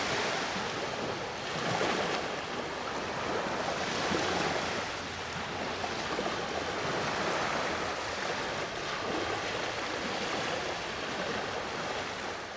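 Sea waves washing on the shore, a steady rush of surf that swells and eases every couple of seconds, fading out near the end.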